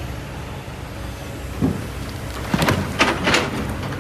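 Kobelco SK200 excavator's diesel engine running steadily under load, with a few sharp knocks and clanks of stone and metal, loudest about three seconds in.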